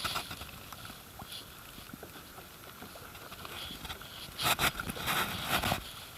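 Kayak paddle strokes in river water: low steady water noise, then three or four short splashes of the paddle blades in quick succession starting about four seconds in.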